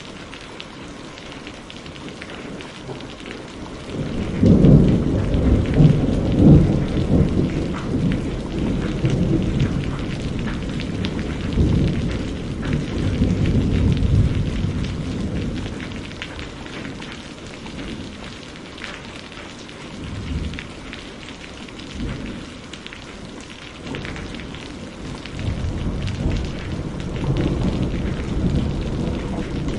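Steady rain with rolling thunder: a loud rumble breaks in about four seconds in and rolls on for some ten seconds, then smaller rumbles follow near the end.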